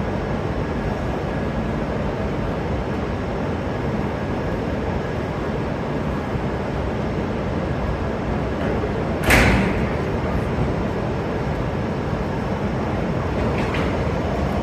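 Steady rumbling noise of a shinkansen train, with one short, sharp sound about nine seconds in.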